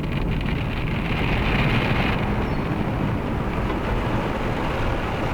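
Automatic car wash roller brushes and water spray scrubbing over the car, heard from inside the cabin as a steady, dense wash noise, with a brighter hiss for the first two seconds.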